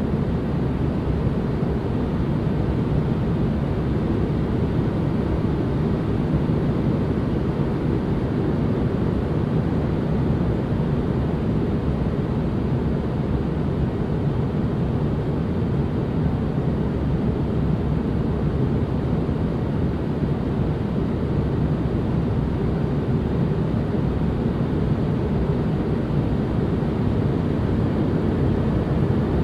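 Steady white-noise ambience, weighted deep so that it sounds like a low, even rush, unchanging throughout.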